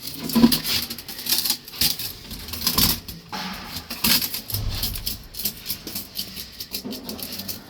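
Small metal parts and tools clinking and clattering, a quick irregular run of clicks and knocks.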